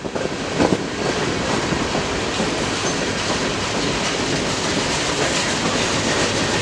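Norfolk Southern freight train rolling past: steady, loud rumble of railcar wheels on the rails, with a few knocks in the first second.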